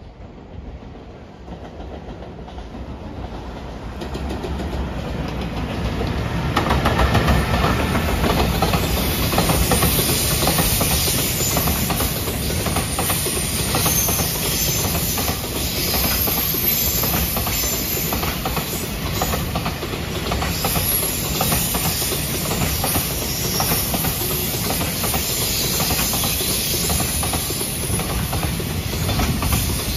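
Freight train of container wagons passing close by: rumbling and clattering of wheels on the rails. It grows louder over the first several seconds as the train approaches, then holds steady as the wagons roll past.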